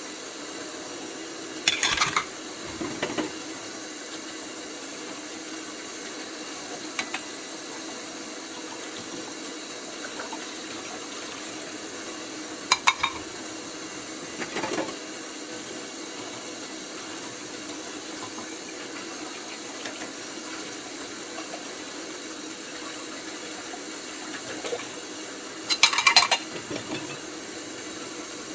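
Dishes clinking and clattering against each other at a kitchen sink in a few short bursts, the loudest near the end, over a steady hiss.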